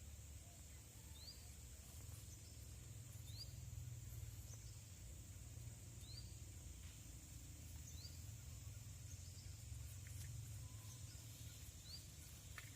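Faint rural ambience: a steady high-pitched insect drone, with a short rising chirp repeating every two to three seconds over a low rumble.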